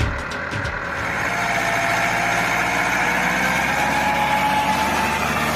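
A motor running steadily, with a whining tone that slowly rises in pitch; a music beat fades out in the first second.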